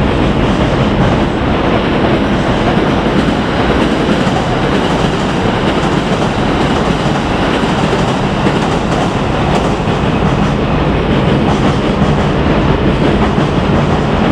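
A 681/683 series electric limited-express train running along the track: a steady rumble with the clickety-clack of wheels over rail joints.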